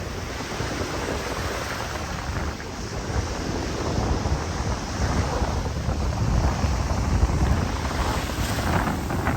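Ocean surf washing in, with wind buffeting the microphone in a steady low rumble.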